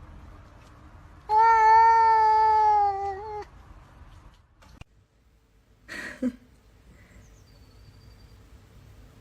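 A domestic cat giving one long meow of about two seconds, nearly steady in pitch and dropping a little at the end. A short, soft noise follows about six seconds in.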